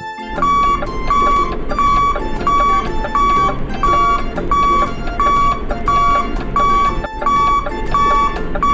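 An electronic beep repeating evenly, about one and a half beeps a second, over a steady noisy background.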